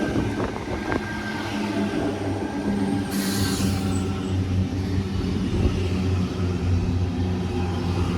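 Sydney Trains Tangara electric train running through the station with a steady low hum. A short high hiss comes about three seconds in.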